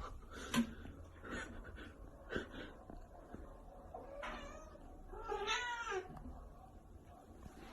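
Cat meowing: a short call about four seconds in, then a longer meow about five seconds in, with a few faint taps before.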